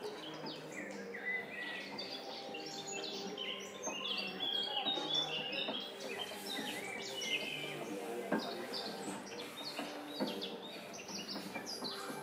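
Small birds chirping and singing in quick, overlapping calls, over faint steady low tones.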